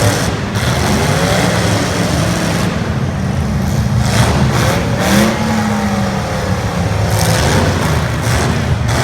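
Several 1980s stock cars' engines revving hard together in a demolition derby, pitch rising and falling. A few sharp bangs from car collisions come through over the engines.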